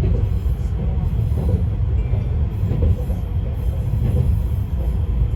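Izukyu 2100 series electric train running, heard from inside the car: a steady low rumble of wheels on rail and running gear.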